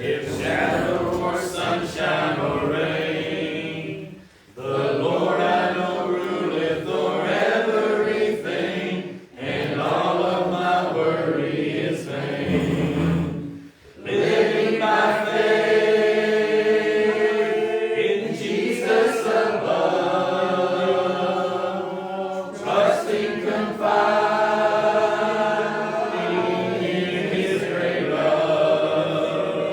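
Church congregation singing the invitation hymn together, many voices without instruments, pausing briefly between lines.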